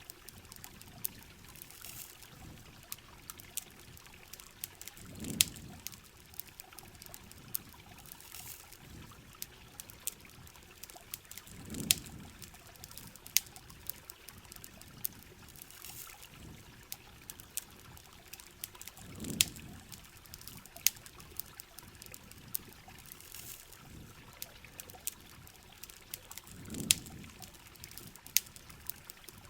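Steady rain with a trickling, pouring water sound, scattered with sharp campfire crackles and pops. A low watery swell comes back about every seven seconds.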